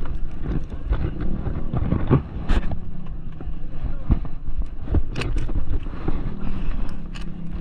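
Engine of a 200cc bore-up Mahindra Rodeo moped scooter running under a rough, wind-buffeted rush on the camera microphone, with several sharp knocks.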